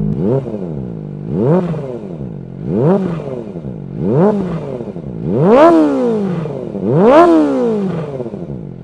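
Kawasaki ZX-25R's 250 cc inline-four revved six times at a standstill through an aftermarket slip-on silencer taken from a big bike; each blip climbs sharply in pitch and falls back toward idle, the last two highest and loudest. The exhaust note sounds like a big four-cylinder.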